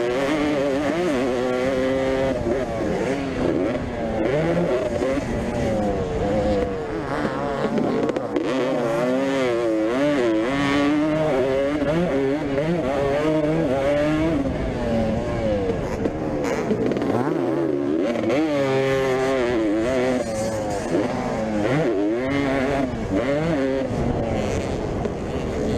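Vintage motocross motorcycles racing, several engines revving up and easing off over one another, pitch rising and falling continually.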